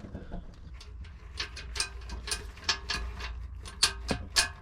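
Irregular metallic clicks and clinks of hand tools working on metal differential parts, some ringing briefly, over a low steady rumble.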